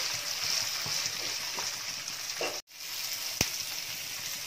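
Peanuts, chana dal, chillies and curry leaves sizzling in hot oil in a nonstick pan as the tempering fries, stirred with a spatula. The sizzle cuts out for a moment about two and a half seconds in, and a single sharp click comes just under a second later.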